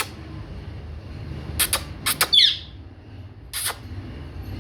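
Pet parrot giving a short chirp that falls in pitch, about halfway through, among a few sharp clicks.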